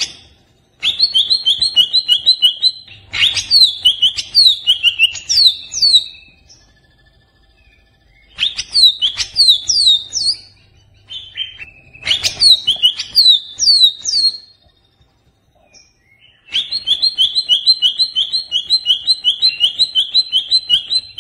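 Greater green leafbird (cucak ijo) singing in its agitated 'stressed' style: loud bouts of high notes repeated evenly, about five a second, alternating with runs of quick falling whistles, with short pauses between bouts. The longest run of repeated notes comes near the end.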